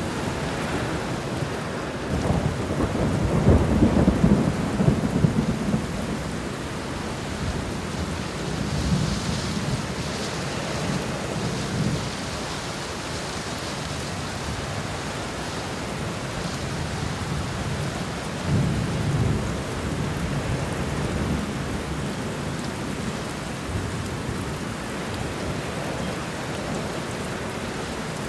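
Thunderstorm: steady rain falling, with rolling thunder rumbling low several times, loudest a few seconds in and again about two-thirds of the way through.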